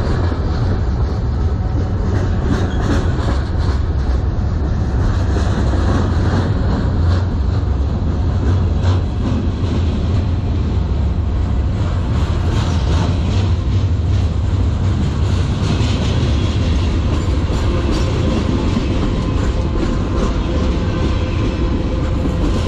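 Freight cars of a manifest train rolling past at close range: a steady low rumble of steel wheels on the rails, with a continual clicking and clacking of wheels over the rail.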